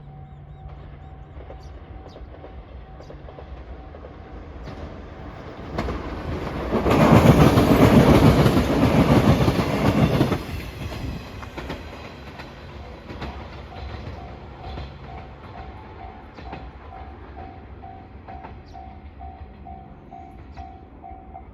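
A train passing over a level crossing, loud for about four seconds around the middle with a fast rattle of wheels on rail, then fading. The level-crossing alarm bell is heard at the start and rings again with a repeated ding about twice a second through the second half.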